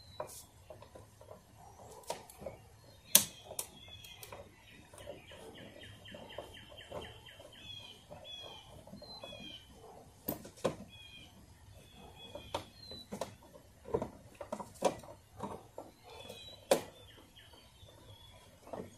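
A songbird chirping repeatedly in short calls, with a trill a few seconds in. Scattered sharp clicks and taps of hand tools against the camper's aluminium siding and trim as parts are pried off, the loudest about three seconds in.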